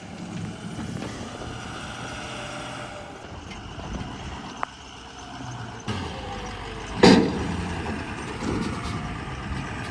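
Ford 6.0 Power Stroke V8 turbo-diesel pickup idling, with one loud thump about seven seconds in.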